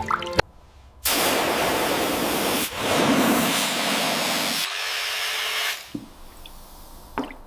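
A hissing spray jet runs loud and steady for nearly four seconds. It carries on weaker with a faint steady tone for about another second, then cuts off suddenly. A short click follows near the end.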